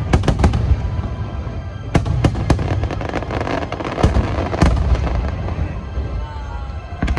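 Aerial fireworks display: rapid sharp cracks of bursting shells over a deep continuous rumble of booms. It thins out over the last couple of seconds.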